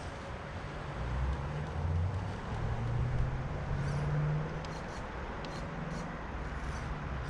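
Axial SCX10 III RC crawler's electric motor and geartrain whining, the pitch rising and falling with the throttle from about a second in, with a few light clicks midway. The truck is running in two-wheel drive rather than four-wheel drive.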